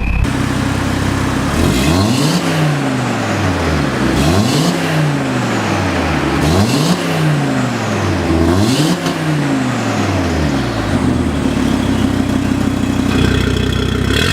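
Audi RS3 8V's turbocharged 2.5-litre five-cylinder engine, through an Armytrix valved exhaust, revved four times about two seconds apart, each rev climbing and falling straight back, then settling to idle.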